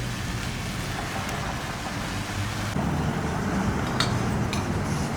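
Car wash spray wand spraying onto the car: a steady hiss with a low pump hum underneath, stepping up louder a little over halfway through.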